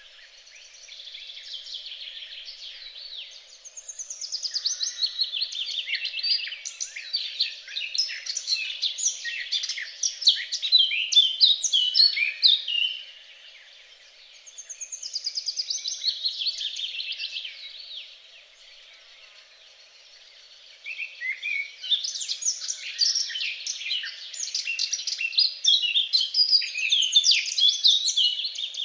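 Songbirds singing in rapid, varied, high chirping phrases, in two long loud bouts with a quieter stretch between them.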